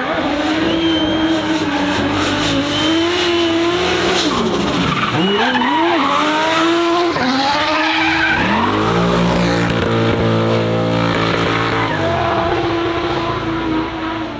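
Racing car engine revving hard on a hillclimb course. Its pitch climbs and drops several times through gear changes, then holds steady, with tyres squealing.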